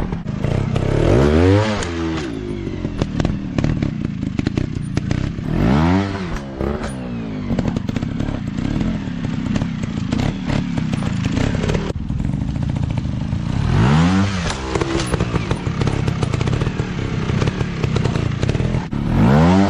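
Small dirt bike engine running, with four quick throttle blips that rise and fall in pitch, about a second and a half in, around six seconds, around fourteen seconds and again at the end.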